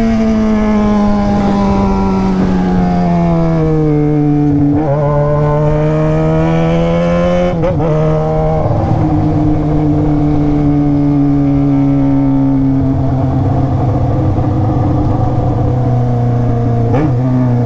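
Yamaha XJ6's inline-four engine through a straight-pipe stainless exhaust, heard while riding: the revs fall slowly, the note breaks briefly about five and eight seconds in, and it then runs at lower, steady revs.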